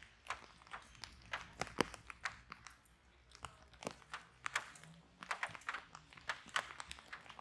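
Fireplace fire crackling, with irregular sharp pops and snaps and a short lull about three seconds in.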